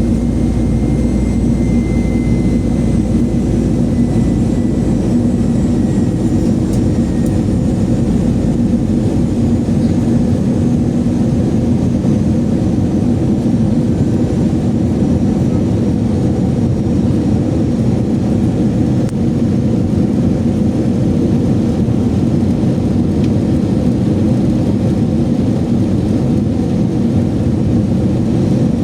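Steady cabin noise inside an Airbus A321 on its approach for landing: the jet engines and rushing airflow make a loud, even low rumble. A faint high whine sinks slightly in pitch over the first several seconds.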